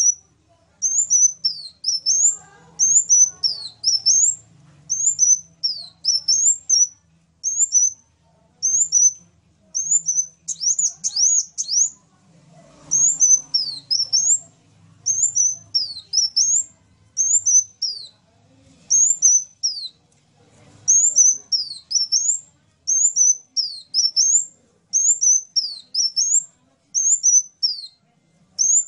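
Sunbird song: short phrases of high, quick, zigzagging notes, repeated about once a second with brief pauses between them.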